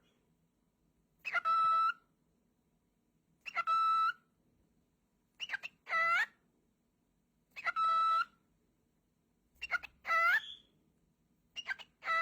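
Cockatiel calling over and over, each call a short chirp followed by a longer whistled note, about one every two seconds.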